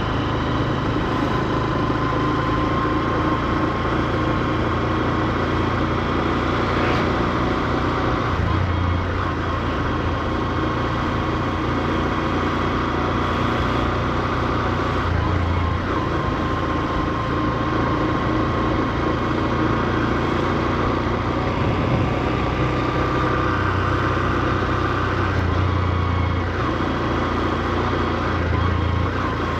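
Honda CB125F's air-cooled 125 cc single-cylinder engine running at low revs, held low because the new engine is being broken in. The engine note stays fairly steady, with small shifts in pitch and level.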